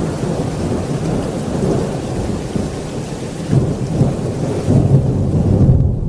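Thunderstorm: a rolling rumble of thunder over heavy rain, the rumble swelling louder in the second half.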